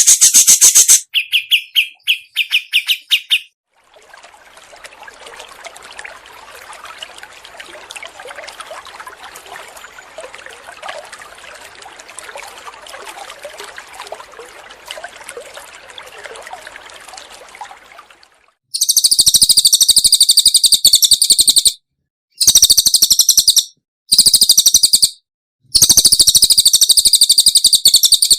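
Recorded songbird song: very fast, high trills that start and stop in short bouts, with a long stretch of quieter, scratchy chattering in the middle.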